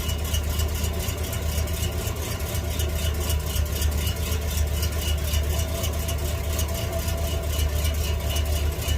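1948 Ford F5 bus engine idling steadily through its exhaust. It is running on the fuel left in the carburettor float bowl, with the new fuel pump not yet drawing fuel from the tank.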